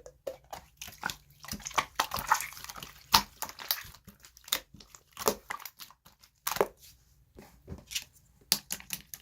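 Pearl green slime being squished and stretched by hand, giving irregular sharp clicks and air-bubble pops with crinkly squelching between them.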